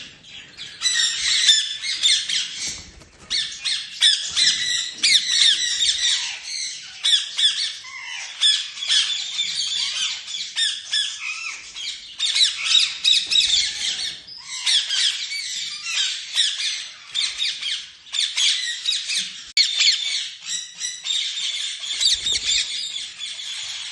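Lovebirds chattering and squawking: a dense, nearly unbroken stream of high, rapid chirps and squawks, with a few short pauses.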